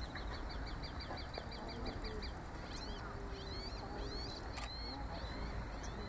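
Small birds calling over steady outdoor background noise. A rapid run of high ticks lasts about the first two seconds, then several short, high chirps come in the middle, with a single sharp click about four and a half seconds in.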